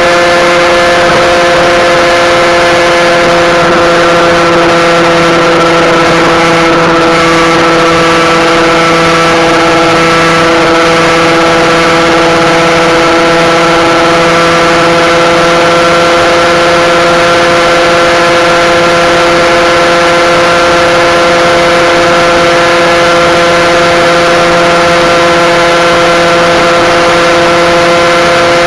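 Husqvarna SM 125's single-cylinder two-stroke engine, exhaust restrictors removed, held at steady high revs as the bike is ridden near top speed: a constant high-pitched drone whose pitch barely drifts.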